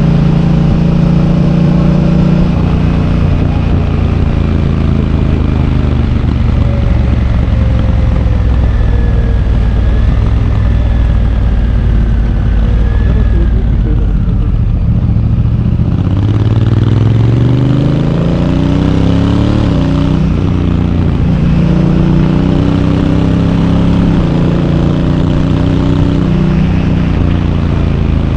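Honda Africa Twin DCT's parallel-twin engine on the move. The engine note holds and slowly falls through the first half; from about halfway it climbs in several short rising steps, each dropping back as the dual-clutch gearbox shifts up.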